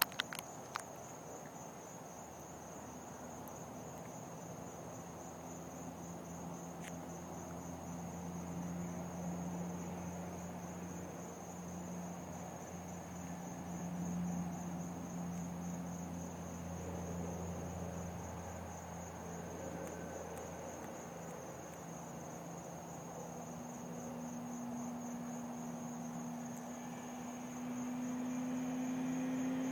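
Crickets chirping steadily, with the faint hum of a distant Kawasaki ZX-6R 636 inline-four engine rising and falling. Near the end the engine's pitch starts to climb and grow louder as the bike approaches.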